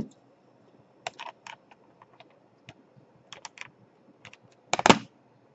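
Plastic laptop casing and parts clicking and tapping as they are handled during disassembly: scattered short clicks in small clusters, with a louder clatter near the end.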